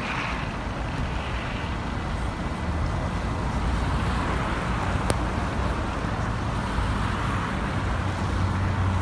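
Steady road traffic noise on a highway, with vehicles running past and a low rumble, and a single sharp click about five seconds in.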